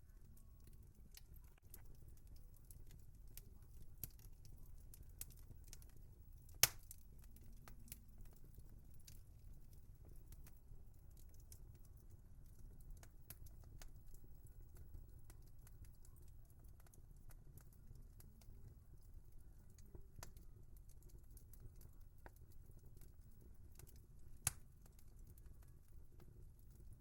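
Wood fire crackling in a fireplace: scattered small snaps and ticks over a low steady background, with two louder pops, one about a quarter of the way in and one near the end.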